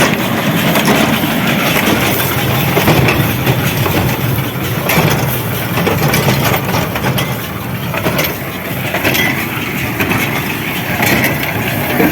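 Farm tractor engine running steadily, with a mechanical clatter and rustle over it.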